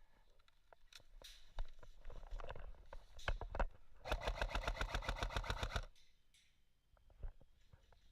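Airsoft electric gun firing one full-auto burst of just under two seconds, about ten shots a second, with scattered single clicks and knocks before and after.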